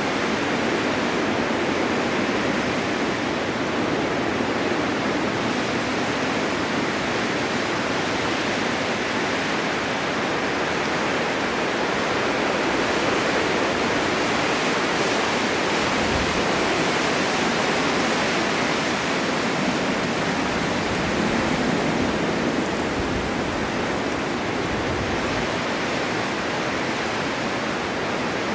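Snowstorm wind blowing steadily, an even rushing noise that swells and eases slightly over several seconds.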